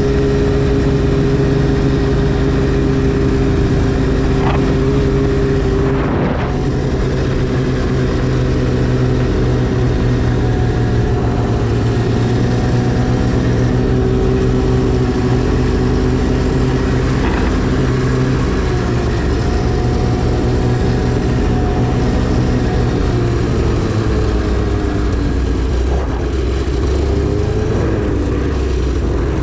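Arctic Cat CFR 1000 snowmobile's two-stroke twin running under a fairly steady throttle while riding, its pitch easing up and down only a little, with a couple of brief knocks along the way.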